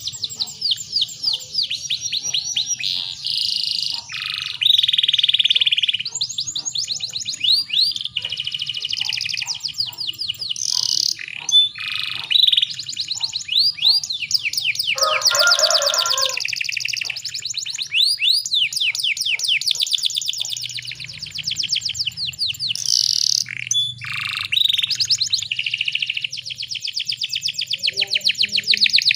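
Canary singing: long runs of fast repeated high notes and trills, phrase after phrase, with a short, lower buzzing note about halfway through.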